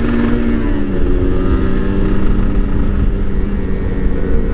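Motorcycle engine running steadily while riding, its note easing slightly about a second in and then holding, with wind rumble on the microphone.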